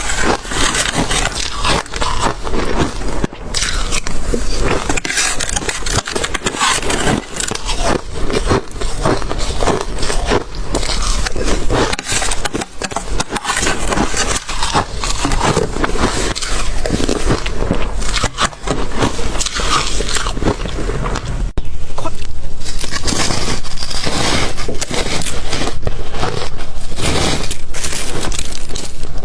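Close-up chewing and crunching of hard ice, a dense run of cracking and crackling bites. It gets louder about two-thirds of the way through.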